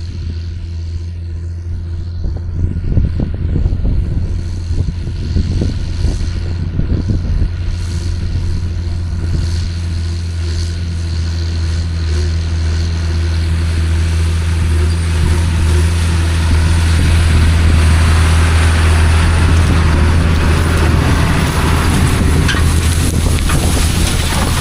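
Tractor engine running steadily under load while working a field, a deep steady hum joined by louder, rougher noise that builds from about halfway through.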